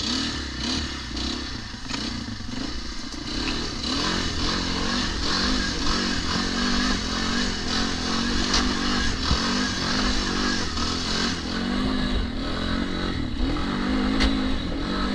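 Dirt bike engine revving up and easing off again and again as it is ridden slowly over rough ground, with clattering knocks, heard from a camera in the rider's helmet.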